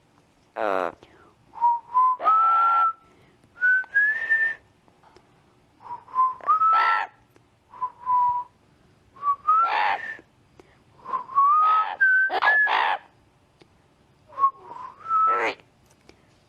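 Parrot whistling the same short tune over and over, clear notes stepping upward, each phrase broken by loud, harsh squawks.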